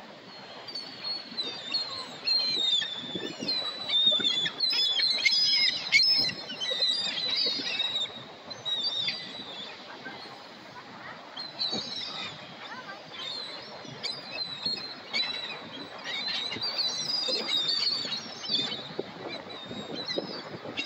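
A flock of seagulls calling, many short overlapping squawks, with a lull about halfway through before the calling picks up again.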